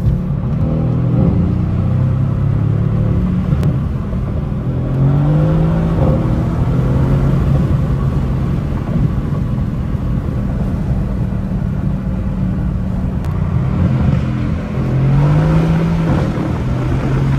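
Stock 4.0-litre twin-turbo V8 of a 2017 Mercedes-AMG C63, without valved exhaust, heard from inside the cabin while the car accelerates. The engine note rises in pitch about five seconds in and again near the end, pulling up through the gears.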